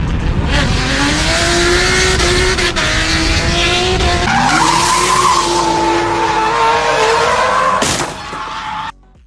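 Car engine held at high revs while the tyres skid and squeal through a drift. The pitch wavers and climbs a little partway through, and the sound cuts off suddenly near the end.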